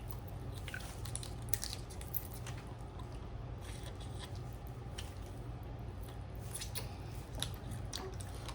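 Snow crab being eaten by hand: wet squishing and scattered short cracks and clicks of shell, over a steady low hum.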